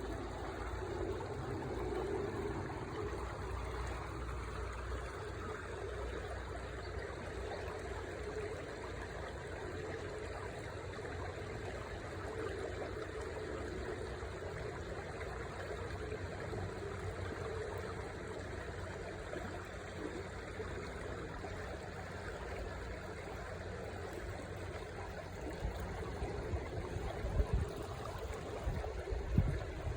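River water running steadily, a continuous rushing sound with most of its energy low down. A few low thumps come in near the end.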